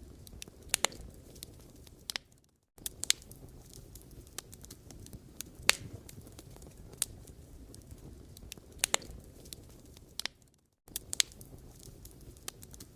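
Log fire burning: a low steady rumble with scattered sharp pops and crackles from the burning wood, a few of them loud. The sound cuts out briefly twice.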